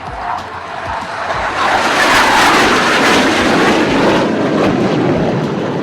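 Low pass by a Surya Kiran team BAE Hawk jet: a rushing jet noise that swells to a loud peak about two seconds in, then drops lower in pitch and slowly fades as the aircraft goes by.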